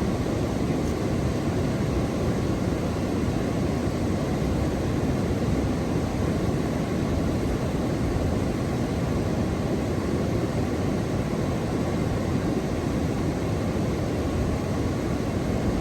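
Steady low rushing noise, even throughout, with no distinct events or pauses.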